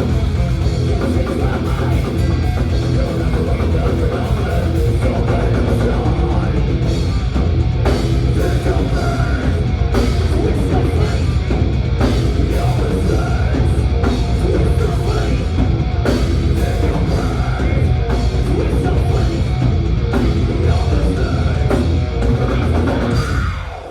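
Thrash metal band playing live: loud distorted guitars, bass and a pounding drum kit, cutting off sharply near the end as the song finishes.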